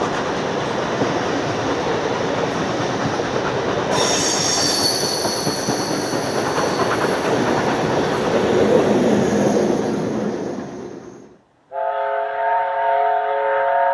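Passenger carriages rolling past on a curve, wheels clattering, with a high, thin wheel squeal setting in about four seconds in; the rear diesel locomotive's engine swells as it passes and the sound then fades away. After a brief gap near the end, a steam locomotive's whistle starts and is held, several notes sounding together.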